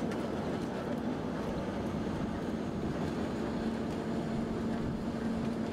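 Moving train heard from an open wagon: a steady rolling rumble and rush, with a steady hum joining about halfway through.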